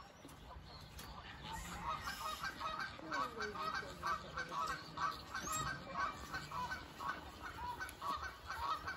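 A flock of birds honking in a rapid, continuous run of short calls, several a second, starting about a second in.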